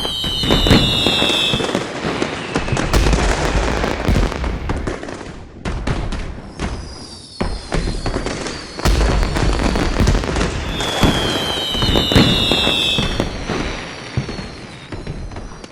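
Fireworks: a whistle gliding down in pitch near the start and again about eleven seconds in, with dense crackling and deep booms throughout, fading out near the end.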